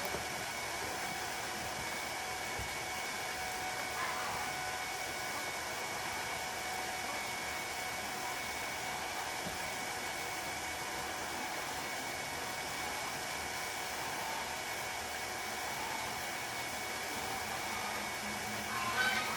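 Water from a garden hose running steadily into a pan, a constant hiss with a faint ringing tone. A goose starts honking right at the end.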